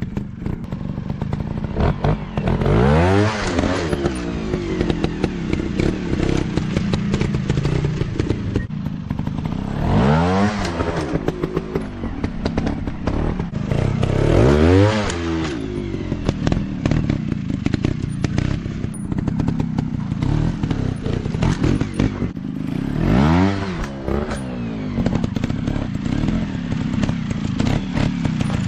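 Dirt bike engine running, blipped up to high revs and back four times, with clattering in between.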